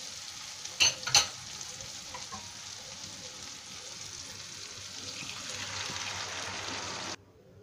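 Onion-tomato masala sizzling in hot oil in a kadhai, with two sharp clicks about a second in. Near the end the sizzle swells into a fuller rush as cooked urad dal and rajma are poured in, then cuts off suddenly.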